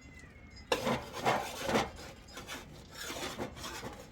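Irregular rubbing or scraping strokes, about two a second, starting under a second in.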